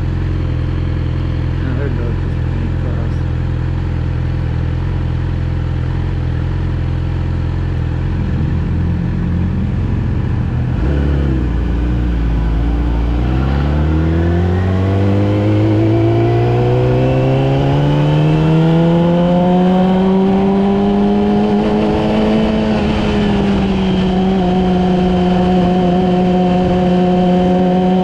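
Yamaha R6's inline-four engine running at a steady low tone, then pulling away: its pitch climbs smoothly for about ten seconds, dips slightly and settles into a steady higher tone.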